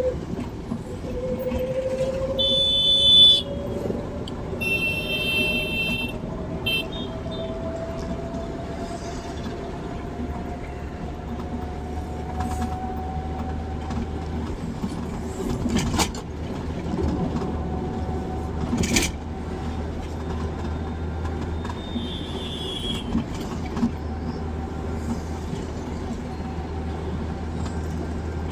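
Car driving on a highway: a steady low road rumble, with a whine that rises slowly in pitch as the car gathers speed over the first half. Two short, high-pitched horn honks come near the start, and a couple of sharp knocks come later.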